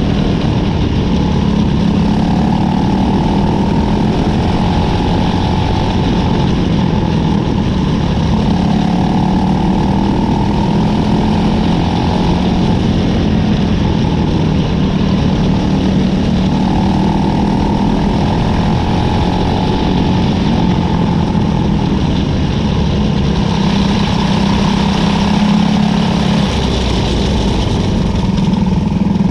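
A cadet wing race car's engine running loud and close, heard onboard. Its pitch swells and eases in a cycle of roughly seven seconds.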